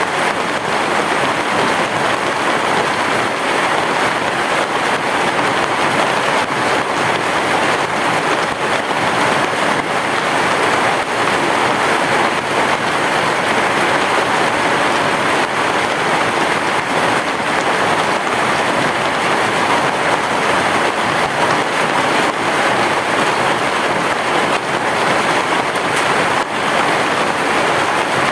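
Heavy rain falling steadily: a dense, even hiss of countless drops with no let-up and no thunder.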